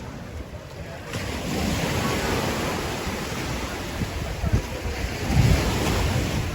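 Wind buffeting the microphone over the rush of sea water splashing, a steady noisy rush with low gusts that gets louder about a second in.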